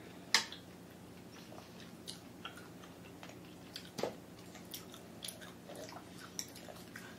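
A person chewing a mouthful of steamed bullet squid (young squid), with soft wet mouth sounds and scattered short clicks, the sharpest just after the start and another about four seconds in.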